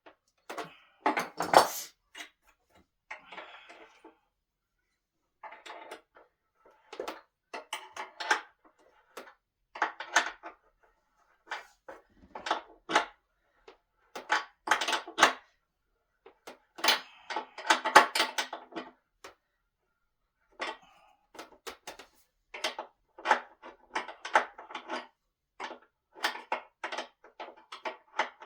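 Irregular knocks, clicks and clatter of wooden table parts and hardware being handled and fitted together during assembly of a solid-wood dining table.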